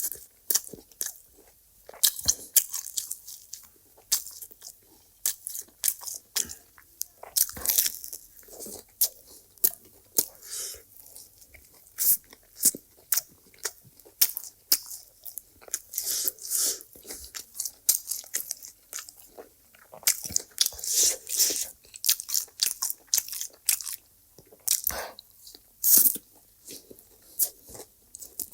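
A person eating close to the microphone, with irregular crunching bites and wet chewing.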